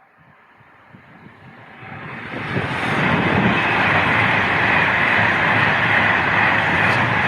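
A train approaching and passing close by: a rush of wheels on rail that grows over the first two or three seconds, then holds steady and loud.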